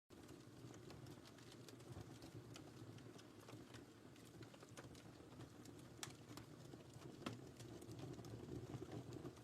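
Wood fire burning in a fireplace, faint: a low, steady rumble of flames with scattered sharp crackles and pops, the loudest pops about six and seven seconds in.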